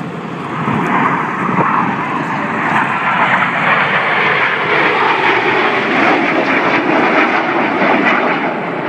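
Several BAE Hawk T1 jet trainers flying past in formation, their Rolls-Royce Adour turbofans producing a loud jet roar. The roar swells about a second in and holds, with a falling pitch partway through as the jets go by.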